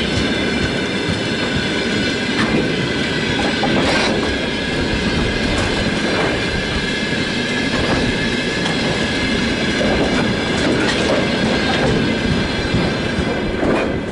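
Freight train of tank cars rolling past, its wheels clacking irregularly over rail joints under a steady rumble, with a thin steady high squeal from the wheels.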